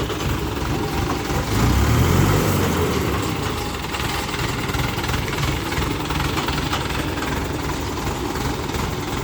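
Heavy vehicle engine running at idle. It swells louder and deeper for a second or two about a second and a half in, then settles back to a steady idle.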